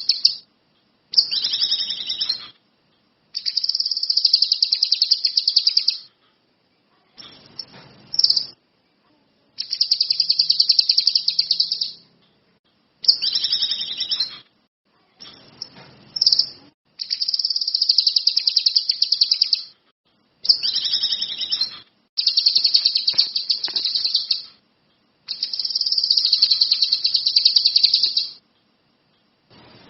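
Kinoi songbird singing in about ten phrases of rapid, high trilling, each one to three seconds long, separated by short pauses.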